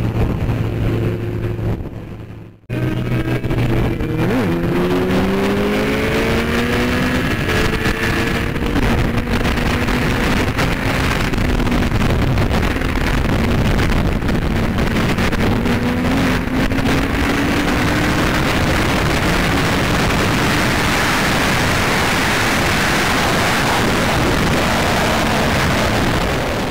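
Sportbike engine running at speed, its pitch rising and falling as it accelerates and shifts, over a loud steady rush of noise. The sound cuts off sharply about two and a half seconds in, then resumes.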